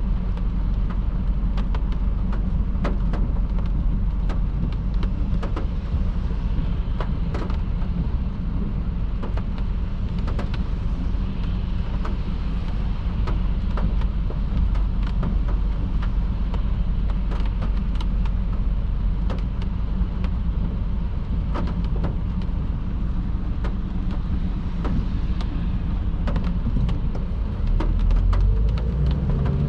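Steady low road and tyre rumble of a car driving on a wet motorway in heavy rain, with many scattered sharp raindrop ticks. The low rumble swells near the end.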